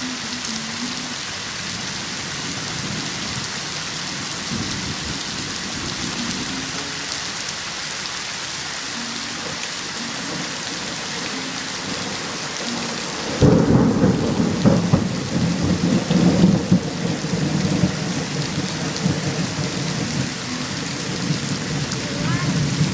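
Steady heavy rain hissing, then about halfway through a sudden loud clap of thunder that rolls on as a long, uneven rumble under the rain.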